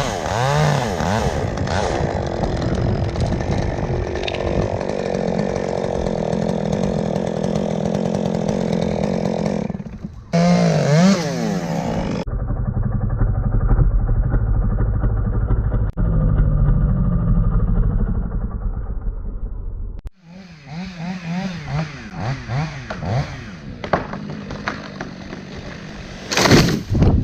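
Gasoline chainsaw running and revving up and down as it cuts, heard in several separate clips that change abruptly. Between about 12 and 20 seconds a duller, lower engine sound takes over.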